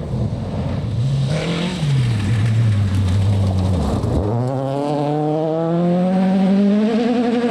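Rally car engine: the revs rise briefly, then drop low as the car slows. About four seconds in, the revs climb steadily as the car accelerates away.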